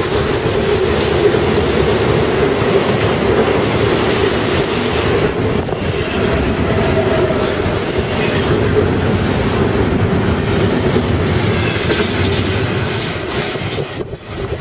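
Fast Union Pacific intermodal freight train of trailers and double-stack containers passing close by at speed, a loud steady rush and clatter of steel wheels on the rails. The noise falls away about fourteen seconds in as the last car goes past.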